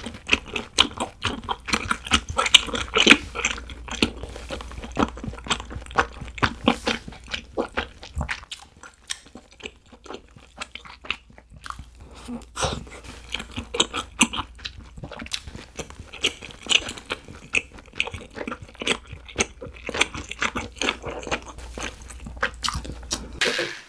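Close-miked mouth sounds of someone chewing food, with many wet smacks and crunches at an uneven pace. There is a quieter stretch about nine to twelve seconds in.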